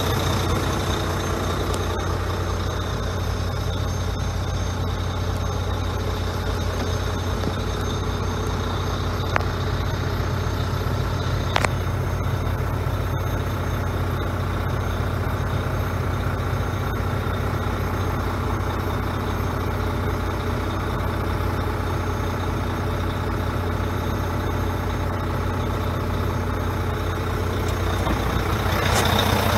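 Volvo road tractor's diesel engine idling steadily, with two short clicks in the middle and the sound growing slightly louder near the end.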